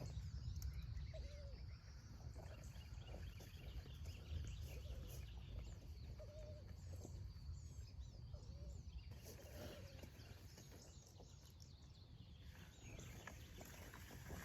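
Low rumble of wind on the microphone, with faint short animal calls several times and a few faint high chirps.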